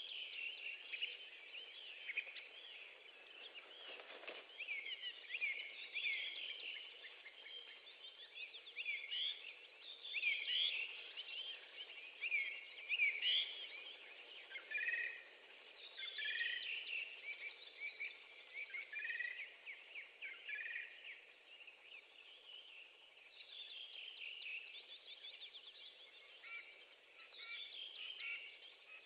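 Birds calling throughout: many short high chirps and quick whistled series, over a faint steady background hiss.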